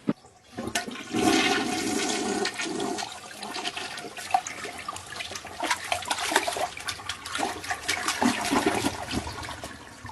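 A toilet flushing: a sharp click, then a rush of water about a second in that is loudest for the first couple of seconds and carries on gurgling to the end.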